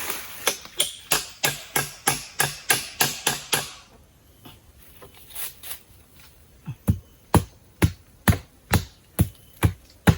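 A hammer driving nails: quick, even blows about four a second for roughly four seconds, then after a short pause slower, heavier, duller blows about two a second.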